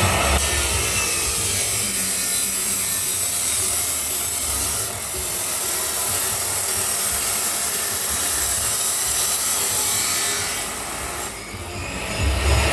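Grinder cutting through stainless steel pipe: a loud, steady, hissing grind of the disc in the metal, easing off briefly about five seconds in and again for about a second near the end.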